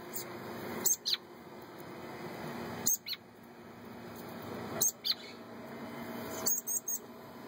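Fledgling birds calling: short high notes that slide downward, coming in pairs about every two seconds, with a quick cluster of high notes near the end. A steady low hum runs underneath.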